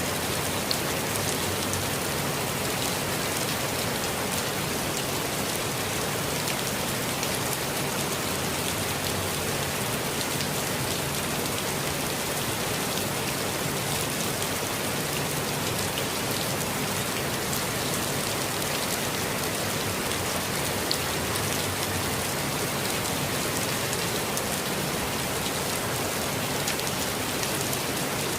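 Steady rainfall on forest foliage, an even hiss with scattered individual drops, unchanging throughout.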